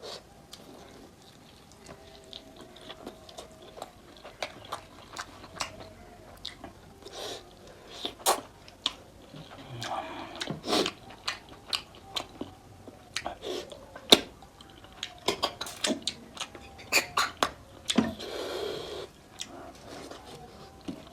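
Close-miked eating of mutton nalli curry and rice: wet chewing and lip smacks with many short clicks. There are a couple of longer, noisier bursts about ten and eighteen seconds in.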